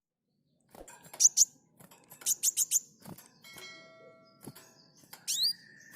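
Brown-throated sunbird singing: quick groups of sharp, very high chirps, a short ringing note about halfway through, and falling whistles into a held note near the end.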